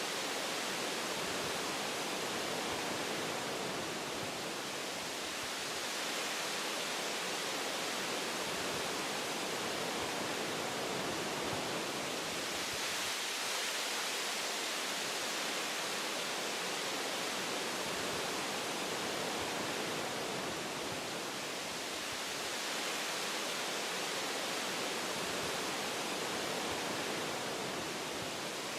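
Wind blowing through forest tree branches, a steady rushing hiss that swells and eases gently.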